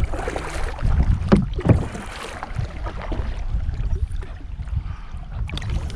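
Kayak paddling: paddle strokes in the water, with two sharper knocks or splashes about a second and a half in.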